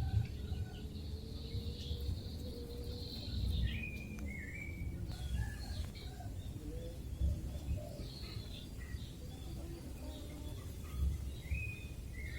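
Chickens calling: many short, high peeping chirps, several falling in pitch, over a steady low rumble.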